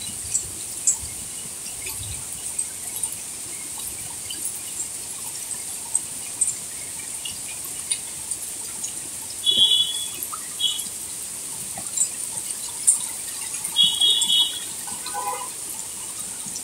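Rain falling steadily on leaves, grass and a brick path: an even hiss with scattered drips and small splashes. Short chirps sound twice, about ten and fourteen seconds in.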